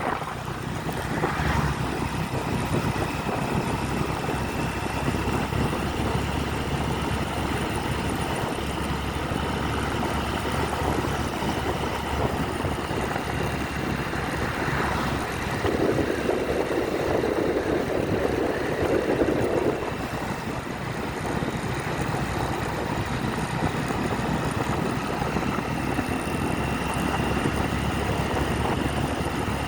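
Motorcycle on the move: steady engine rumble mixed with wind noise on the microphone. A louder rushing noise rises for a few seconds a little past halfway.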